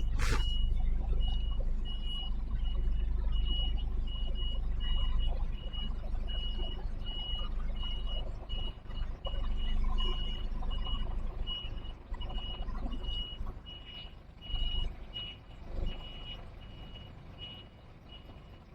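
HGV reversing alarm beeping steadily, about one and a half beeps a second, as the articulated truck backs up, over the diesel engine's low running. The engine sound drops away over the second half while the beeping carries on.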